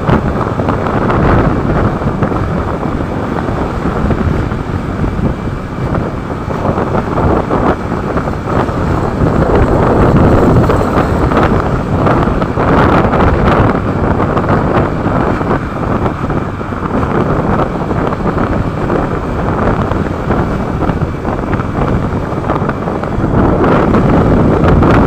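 Loud, steady wind noise buffeting the microphone on a moving motorcycle, with the bike's running noise mixed in.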